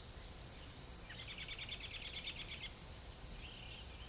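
Garden nature ambience: a steady high-pitched insect drone, with a bird trilling a fast run of chirps for about a second and a half, starting about a second in.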